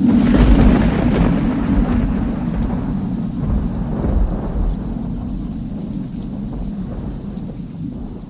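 Thunderstorm: a loud peal of thunder breaks at the start and rumbles on, slowly dying away, over steady heavy rain.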